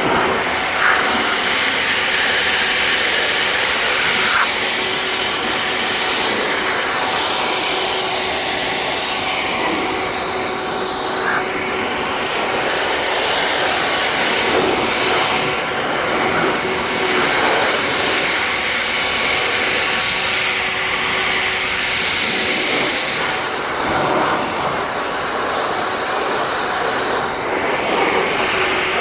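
Handheld air blower running steadily to blow the washed car dry, its rushing tone sweeping up and down as it is moved around.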